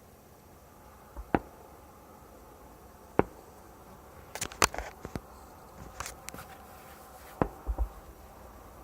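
Fireworks going off: single sharp bangs about one and three seconds in, then quicker clusters of pops and crackles through the second half.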